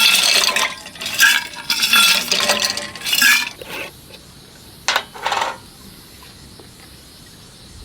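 Dishes and cutlery clinking and scraping in a run of bursts over the first three and a half seconds, then two short clinks about five seconds in.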